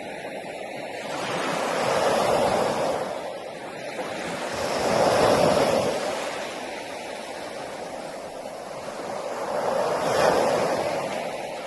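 Sea waves breaking on a beach and washing back, rising and falling in three slow swells.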